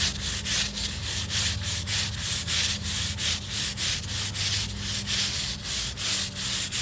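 Scrub brush scrubbed hard back and forth over bleach-wet patio pavers, quick even rasping strokes about four to five a second, scouring off mold and mildew.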